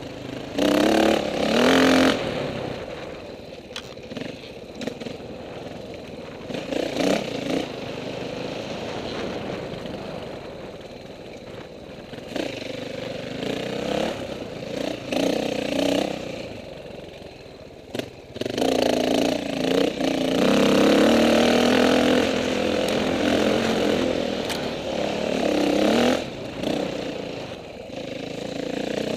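KTM 450 dirt bike's single-cylinder four-stroke engine worked hard on and off the throttle. It surges loudly about a second in and again for several seconds past the middle, and runs lower and quieter between.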